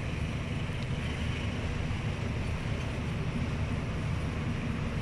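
Passenger coaches of a departing train rolling past, a steady low rumble of wheels on the track.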